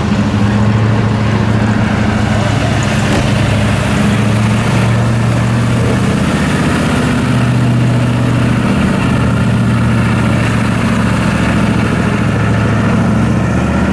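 A car engine idling steadily and loudly, its pitch shifting slightly a few times.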